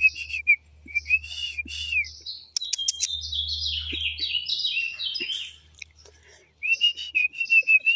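Songbird singing: phrases of clear, slurred whistles repeated over and over, with a quick run of descending notes about halfway through.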